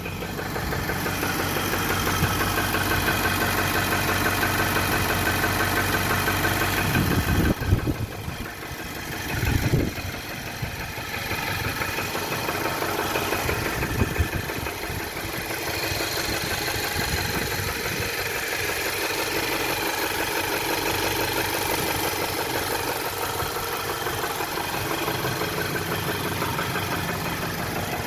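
2018 Nissan engine idling in drive under load from the held brake, with a knock that the owner takes for engine knock. A few louder thumps come partway through.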